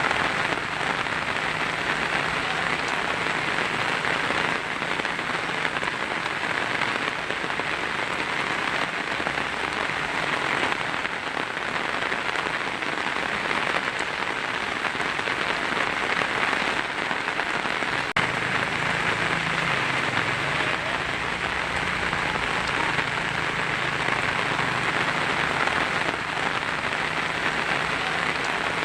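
Heavy rain drumming steadily on a tin roof, an even, unbroken downpour. A single sharp tap stands out a little past the middle.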